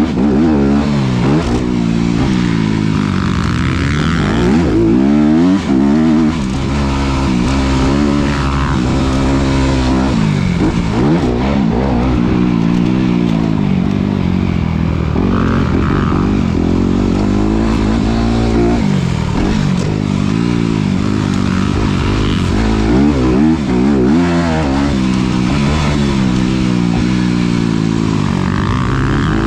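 Honda CRF250RX's 250 cc single-cylinder four-stroke engine revving hard and backing off over and over, its pitch climbing under throttle and dropping between bursts as the bike rides a motocross track.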